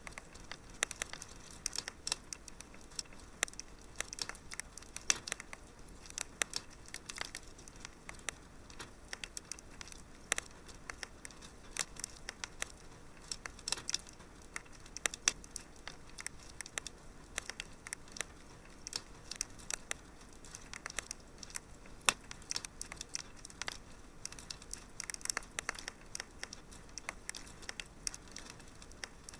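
Wood fire crackling in a fireplace: irregular sharp snaps and pops, several a second, over a faint hiss.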